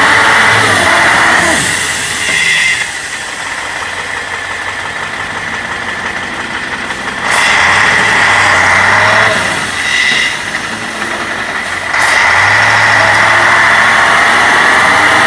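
Truck engine revving hard in three long surges, dropping back between them, with a high whine riding on the revs; the engine is under heavy load as the truck is driven to work itself out of mud.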